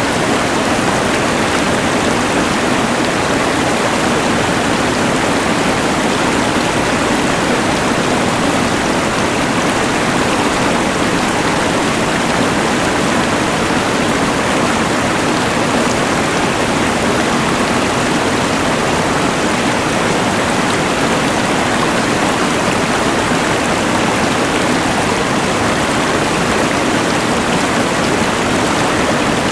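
Rushing mountain river mixed with a LectroFan white noise machine: a steady, unbroken rush of water and noise.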